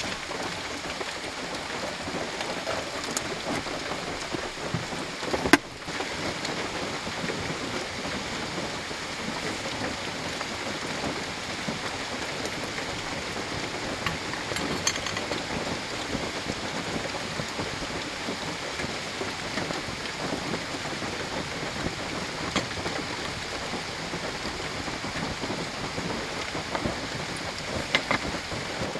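Steady rain falling on the car's roof, heard from inside the car. A few small clicks and clinks come from a metal alcohol stove, its stand and an aluminium mess tin being set up, with one sharp knock about five and a half seconds in.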